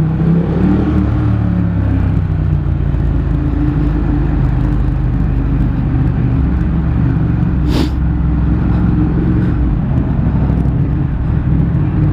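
Car engine running and road noise heard from inside the cabin in slow traffic, with a single sharp click about eight seconds in.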